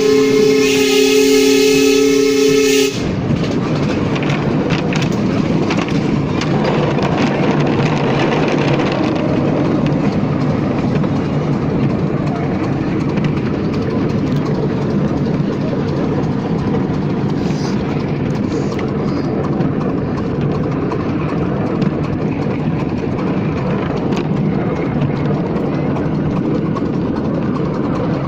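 Miniature steam locomotive's whistle sounding a steady chord, cutting off sharply about three seconds in. Then the steady rumble and clatter of the miniature train running along the track.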